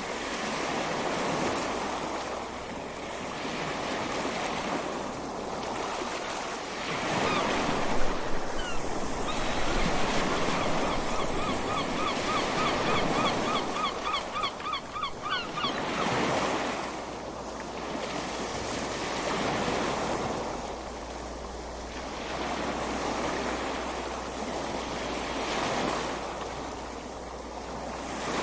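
Ocean waves breaking and washing up the beach, swelling and falling every few seconds, loudest about eight seconds in. Midway, a bird calls in a quick series of short chirps for a few seconds.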